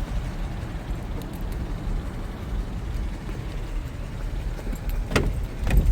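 Dodge Durango's 5.7 Hemi V8 idling with a steady low rumble. The owner hears a slight tick in it and suspects it is probably an exhaust leak rather than a Hemi lifter tick. Two short knocks near the end.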